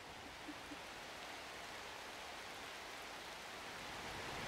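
Rain falling steadily on forest leaves and undergrowth, a soft even hiss that grows slightly louder toward the end, with two brief faint blips about half a second in.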